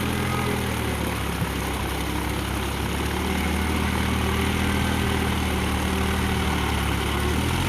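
Mahindra tractor's diesel engine running at a steady speed.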